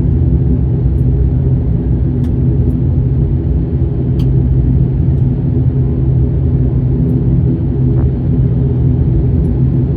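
Steady low drone of a turboprop airliner heard inside the cabin, with a few faint ticks.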